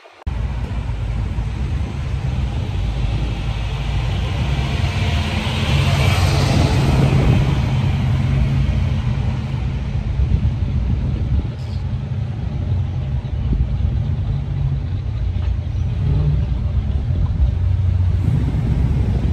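A car engine running with a steady low rumble that swells louder around six to eight seconds in.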